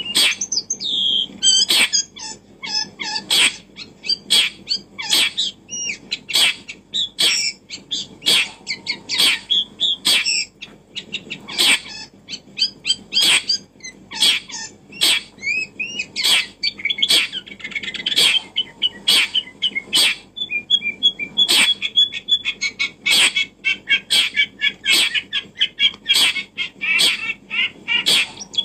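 Birds chirping, with sharp clicks repeating roughly once a second.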